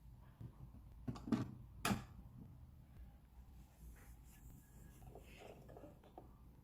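Quiet room with a few soft knocks and clatters bunched together about a second in, as of objects being handled, over a faint low hum.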